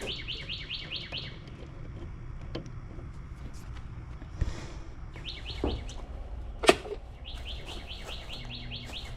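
A bird trilling in three quick bursts of rapid, high, falling notes, about eight a second. Between them come a few sharp clicks and knocks, the loudest about two-thirds of the way through.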